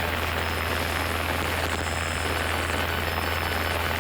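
Cessna 172's piston engine and propeller droning steadily in cruise, heard from inside the cockpit.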